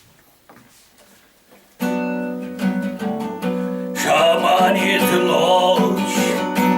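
Acoustic guitar strumming chords starts suddenly about two seconds in, after a few faint clicks; about four seconds in a voice begins singing over it.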